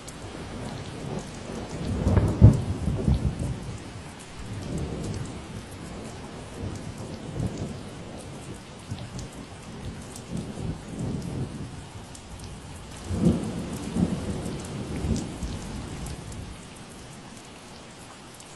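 Steady rain with scattered drop ticks, under a long low rumble of thunder. The rumble swells loudest about two seconds in, rises again around thirteen seconds and dies away near the end.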